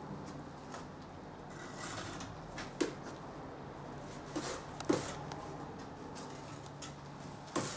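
A few light, sharp knocks and clicks over a faint steady hum.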